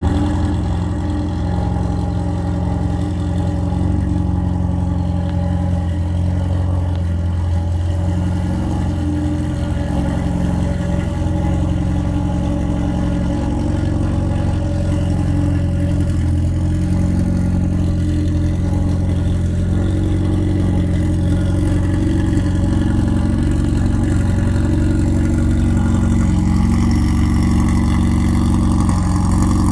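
Volkswagen Golf GTI engine idling steadily.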